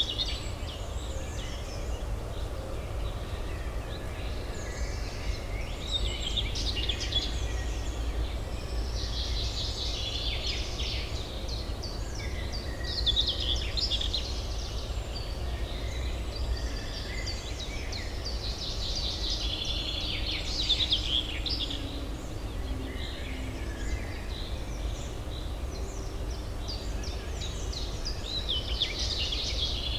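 Many small birds chirping and twittering in overlapping bursts that swell and fade, over a steady low city hum.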